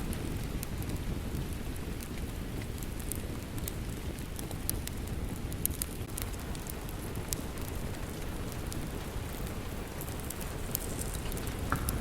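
Steady rain with a crackling log fire: a dense, even rushing hiss heaviest in the low end, with scattered sharp pops and crackles.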